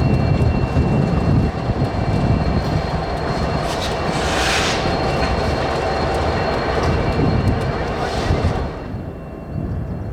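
Freight train on the move: diesel locomotive and rolling cars making a steady low rumble, with a thin, steady high-pitched squeal over it. Two short bursts of hiss come about four and a half and eight and a half seconds in, and the sound drops off shortly before the end.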